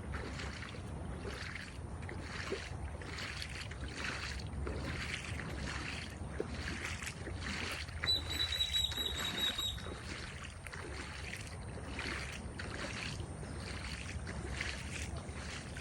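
Water sloshing in soft, regular splashes, about one to two a second, over a low wind rumble. Partway through comes a brief high, wavering whistle-like tone.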